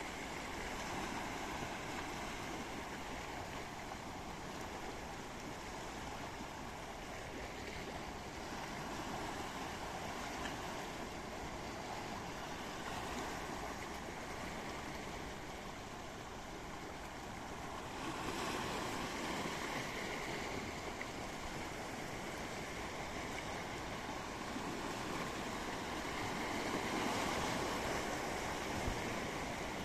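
Sea waves washing in: a steady rush of surf that swells louder about two-thirds of the way through and again near the end.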